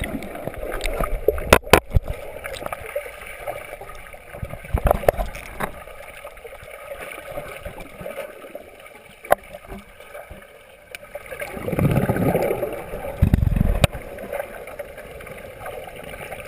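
Underwater sound picked up by a GoPro in its housing: muffled water movement with scattered sharp clicks, and two low bubbling bursts, one about twelve seconds in and another a second and a half later.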